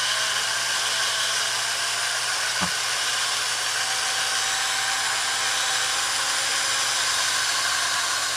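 Electric drill running steadily, spinning an engine valve against a dry abrasive scouring sponge to strip carbon deposits: a motor whine over a continuous scrubbing hiss.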